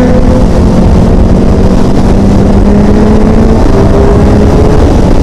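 Sport motorcycle engine running under way, its note holding fairly steady and creeping up slightly a couple of times, under heavy wind noise on the microphone.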